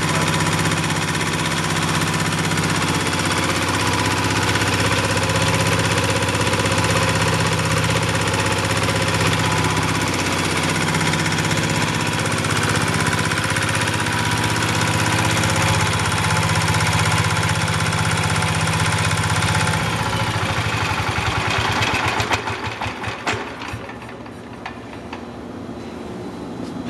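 Petter AC1 single-cylinder air-cooled diesel engine running steadily at speed, then shut down about 22 s in, its last few firing strokes slowing as it coasts to a stop.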